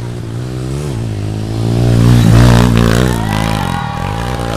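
Motorcycle engine revving hard under load on a steep hill climb. Its pitch rises and falls repeatedly, and it is loudest about halfway through. A high steady tone joins near the end.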